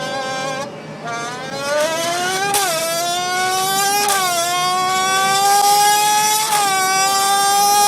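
An F1 car engine imitated through a Red Bull can: a pitched whine that breaks off briefly about a second in, then climbs in pitch and dips sharply three times, like a race car shifting up through the gears.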